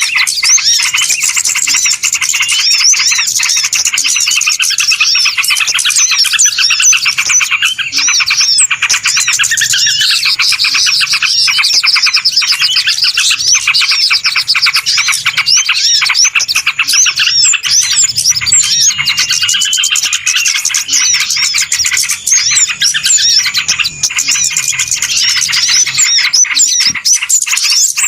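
Dense, noisy chorus of many small birds chirping and twittering over one another without a break, rapid high chirps and trills overlapping throughout: a flock-chatter recording used as a lure for small birds.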